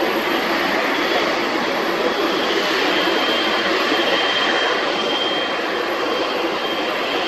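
Boeing 777-300ER's GE90 jet engines running, a steady loud rush with a thin high whine over it.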